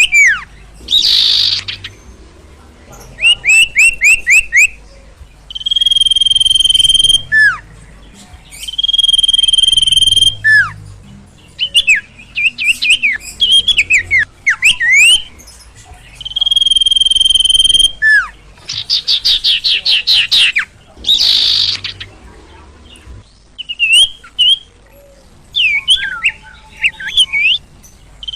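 A sirtu (sirpo) songbird singing loudly in repeated bursts: long steady whistles, quick trills and down-slurred notes, with short pauses between phrases.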